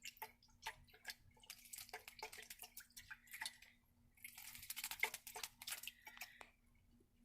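A baby starling bathing, splashing and flicking water with quick light splashes and drips, with two longer spells of flutter-splashing.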